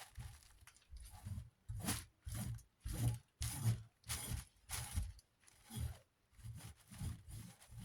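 Repeated scrubbing strokes on a dirty metal fan guard, about two a second, rough and uneven.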